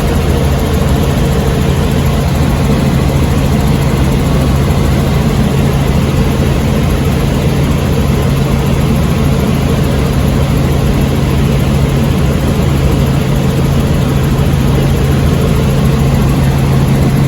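Helicopter cabin noise: a loud, steady drone of engine and rotor with a constant low hum, unchanging throughout.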